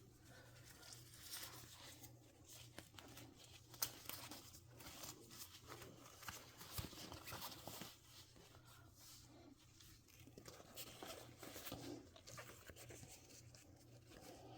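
Faint rustling and small clicks of a vintage Barbie doll and its fabric outfit being handled and dressed, with one sharper tap about four seconds in.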